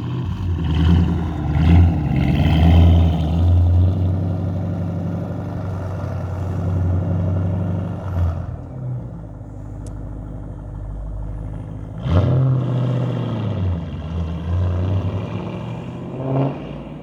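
Car engine revving several times, the pitch climbing and dropping with each blip, loudest in the first few seconds and again about twelve seconds in.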